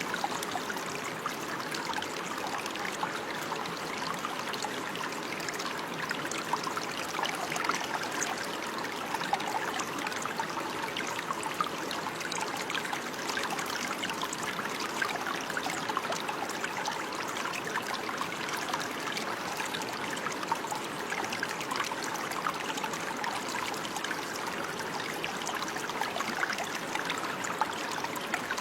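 Running water of a small stream babbling and trickling steadily, with many small splashes and no letup.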